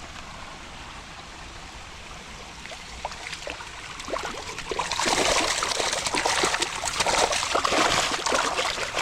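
Pond water trickling, then scattered splashes from about three seconds in that build at about five seconds into loud, continuous splashing: spawning pond fish thrashing at the surface as the males chase and push against the females.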